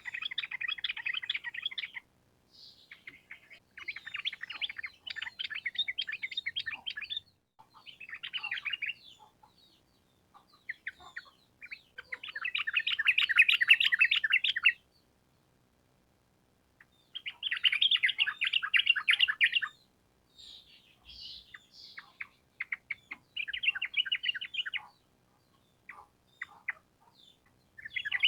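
Yellow-vented bulbul (trucukan) song: bursts of rapid, rolling chattering phrases, each one to three seconds long, repeated with short pauses between them.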